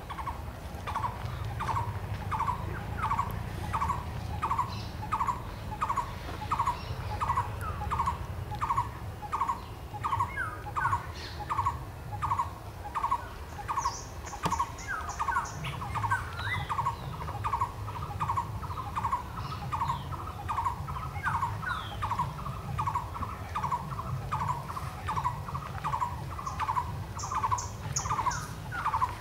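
A forest bird repeating one short note over and over, about one and a half times a second, in a steady unbroken series. A second bird gives a quick run of high notes about halfway through and again near the end.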